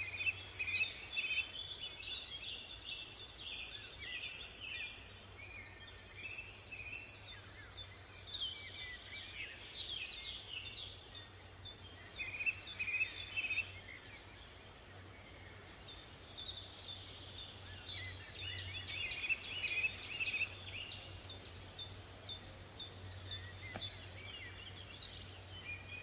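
Small songbirds chirping and twittering in bouts of short high notes, against a steady background hiss and a low hum.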